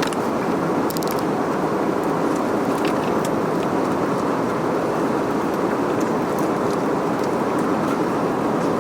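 Steady rush of airflow and engine noise heard inside the economy cabin of an Airbus A320-200 in flight, with a few faint clicks.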